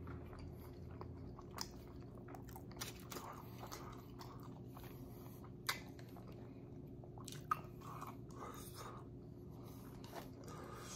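A person chewing a mouthful of burrito: soft, wet chewing and mouth sounds, with two sharp clicks about six and seven and a half seconds in.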